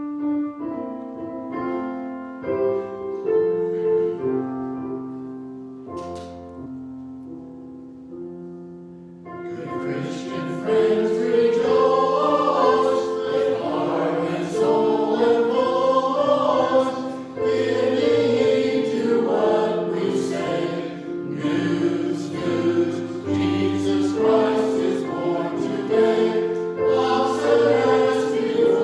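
A piano plays an introduction of sustained chords and melody. About nine seconds in, a choir enters singing, and the piano keeps accompanying them to the end.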